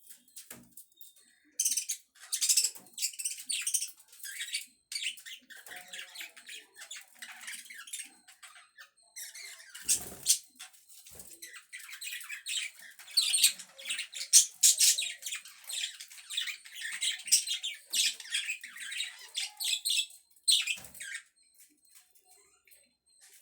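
Budgerigars chattering and squawking in quick, overlapping high chirps, with a short pause about 8 seconds in, then fading out near the end.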